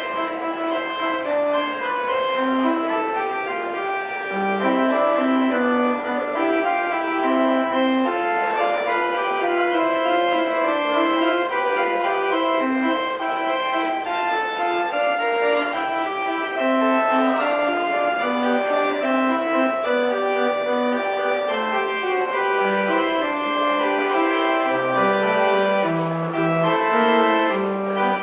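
Organ music: sustained chords with a moving melody above them, and deeper bass notes coming in near the end.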